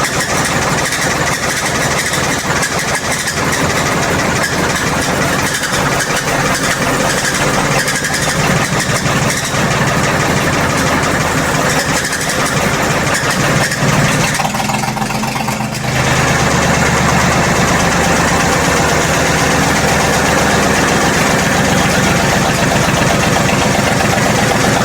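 Engine of a 1928 Barford Perkins Q6 tandem road roller running steadily with a rapid pulse. About fifteen seconds in it dips briefly, then picks up and runs louder and deeper.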